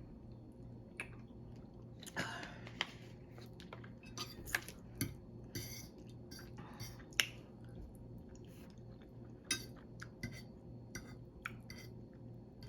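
Close-miked chewing of food, with many short, wet mouth clicks and smacks scattered through it, over a low steady hum.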